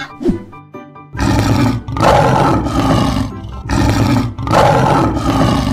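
Lion roaring, a cartoon sound effect: four long roars in a row starting about a second in, over background music.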